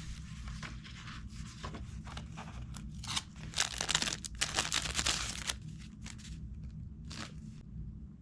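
Crinkling and rustling of something being handled, in short scratchy bursts that are loudest and densest from about three to five and a half seconds in, over a steady low hum.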